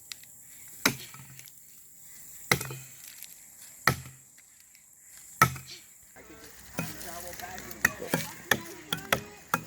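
Steel-bladed tools chopping into a green cottonwood log being hewn into a dugout canoe. First come four heavy single strokes about a second and a half apart, then from about six seconds in quicker, lighter chops that overlap.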